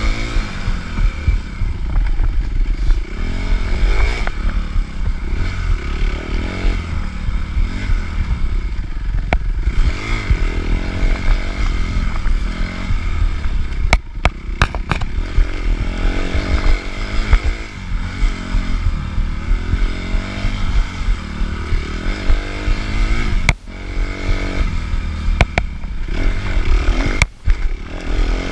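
Suzuki RM-Z250's four-stroke single-cylinder engine heard onboard while racing, revving up and down repeatedly through the gears over rough ground, with scattered sharp knocks and clatter. Twice near the end the engine sound drops out sharply for an instant before picking up again.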